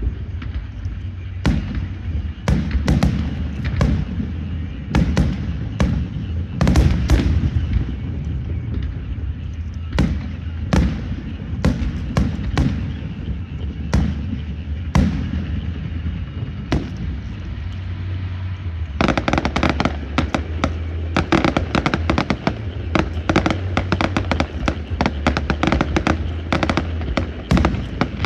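Fireworks going off: separate sharp bangs at irregular intervals, then, about two-thirds of the way through, a dense rapid crackle like a long string of firecrackers, all over a steady low hum.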